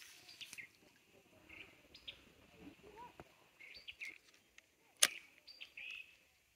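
Small birds chirping in short, scattered calls, with a sharp click at the start and a louder click about five seconds in.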